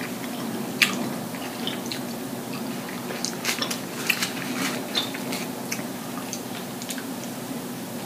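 Close-up mouth-eating sounds: chewing and wet lip smacks, with the crinkle of a sandwich's paper wrapper being handled. Scattered clicks and crackles, bunched about three to five seconds in, over a steady low hum.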